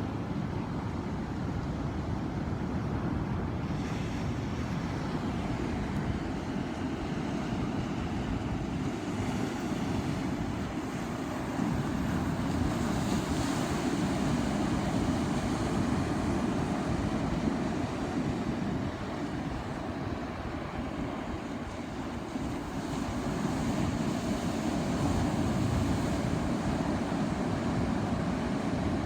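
Ocean surf: a steady low rush of breaking waves that swells louder twice, about halfway through and again near the end.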